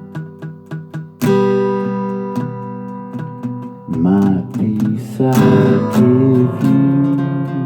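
Acoustic guitar picked and then strummed in chords. About four seconds in, a voice joins, singing a wordless melody over the guitar.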